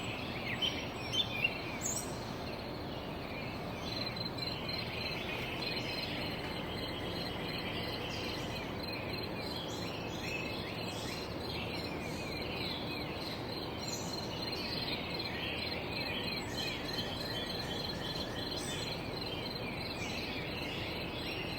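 Birds chirping, with repeated short calls and fast trills, over a steady outdoor hiss. A few soft knocks come in the first couple of seconds.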